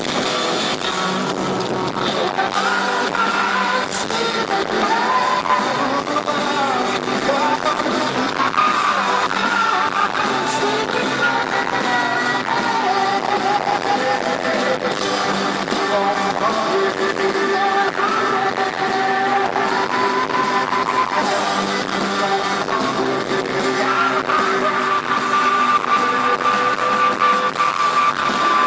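Live grunge rock band playing, with electric guitars and a voice singing a drawn-out melody over them.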